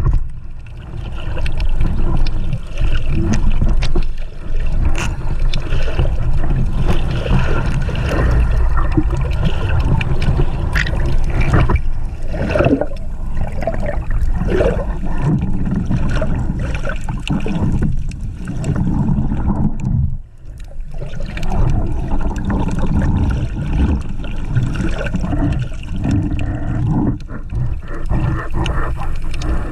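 Underwater water noise: a steady low rush with gurgling bubbles and scattered small clicks, briefly dropping away about twenty seconds in.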